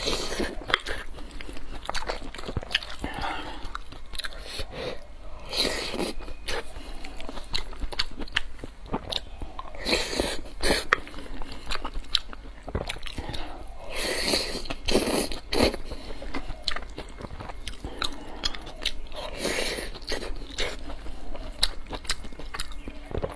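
Close-miked eating sounds: biting and wet chewing of spoonfuls of rice with braised pork belly and tomato-and-egg, with many irregular mouth clicks and smacks.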